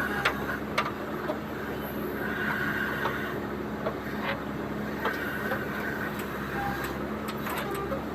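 Diesel engine of a JCB 3DX backhoe loader running steadily, with scattered sharp knocks and clanks, and two short high-pitched whines.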